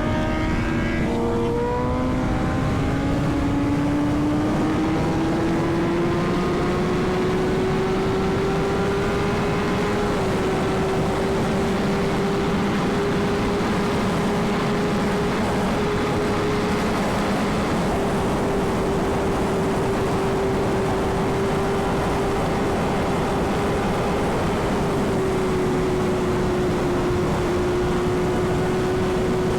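Sport motorcycle engine pulling with a steadily rising pitch for the first several seconds, then holding an even drone at cruising speed. Heavy wind rush runs over the microphone throughout.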